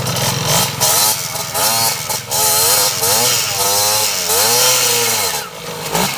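Dirt bike engine revved up and down about five times in quick succession, each throttle blip rising and falling in pitch, then settling back near the end.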